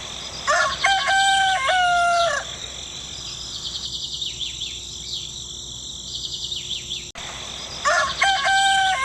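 A rooster crowing, one long crow lasting about two seconds near the start and another beginning near the end, with small birds chirping in between.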